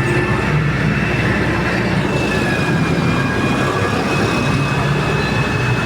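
Heavy excavator running under load: a steady low engine rumble with a thin, high, steady whine over it.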